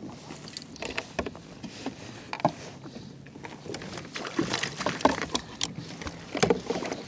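Irregular clicks and knocks of fishing gear being handled on a kayak at sea, over a low steady hiss of water and air.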